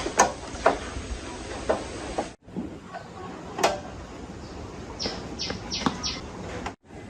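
Scattered sharp clicks and knocks of tools and metal parts being handled, with a quick run of about five sharp clicks later on; the sound cuts out abruptly twice.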